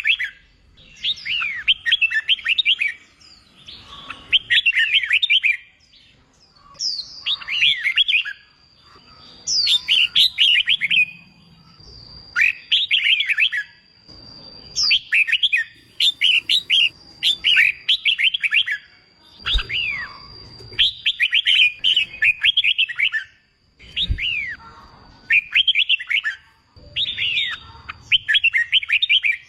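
Red-whiskered bulbul singing in short phrases of quick warbling notes, about one phrase every two seconds: competition-style song used to train young wild-caught birds. A faint steady high tone runs under the middle of it.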